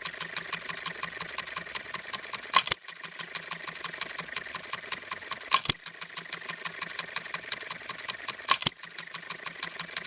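Seven Mountains scale New Holland hit-and-miss engine running: a fast, steady clicking as it coasts, broken by a single loud firing stroke about every three seconds, three times, the hit-and-miss cycle of the governed engine.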